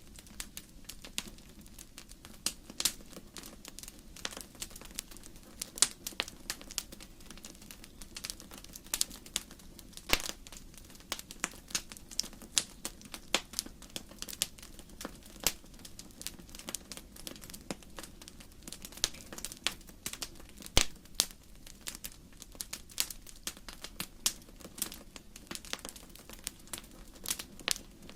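Wood logs burning in a fireplace: irregular sharp crackles and pops, several a second, over a soft steady low rumble of the fire.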